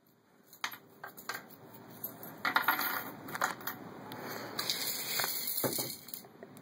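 Pennies dropped one by one into a small floating model boat, a series of sharp metallic clinks as they land on the pennies already aboard.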